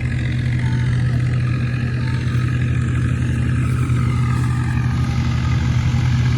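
Tractor's diesel engine running at a steady, even speed.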